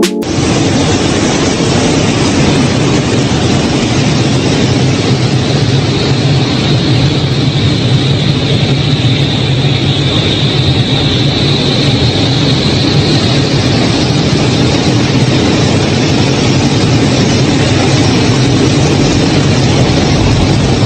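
Helicopter in flight: a steady, loud rush of engine and rotor noise, with a high whine that grows a little louder around the middle.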